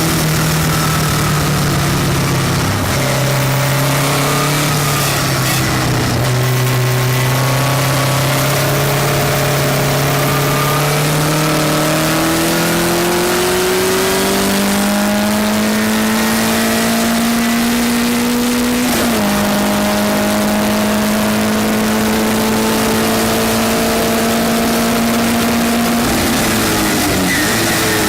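Westfield race car engine at racing speed, heard from on board. The note climbs slowly as the car accelerates, with sudden drops in pitch about 3 seconds in and again past the middle as it changes gear, then falls away near the end as the car slows. A steady rush of wind and road noise runs under it.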